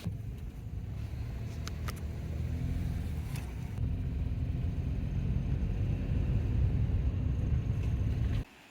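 Car driving on a road: a steady low rumble of engine and tyres that grows a little louder, with a few faint ticks in the first few seconds, cutting off suddenly near the end.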